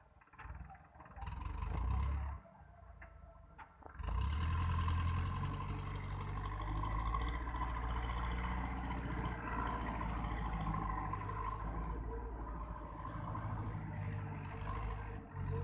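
Powertrac tractor's diesel engine running steadily. It is preceded by a short loud burst and a quieter lull in the first few seconds, then holds at a steady level from about four seconds in.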